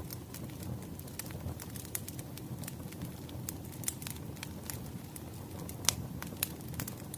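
Wood fire crackling: a steady low rumble of flames with irregular sharp pops and snaps, the loudest pop about six seconds in.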